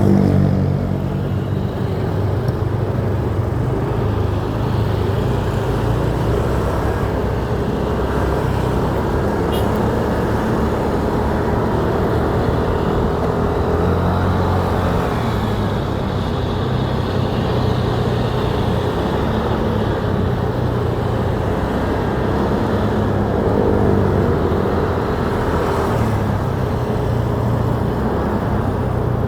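Motorcycle engine running steadily while riding, its pitch shifting gently with speed, over a constant rush of road and wind noise, with car traffic around.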